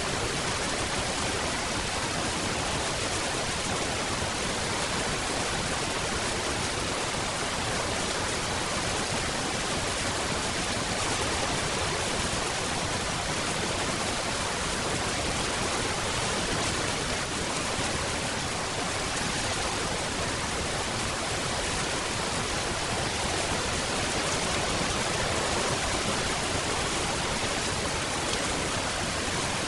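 Steady rain: an even, continuous hiss with no single drops, thunder or changes standing out.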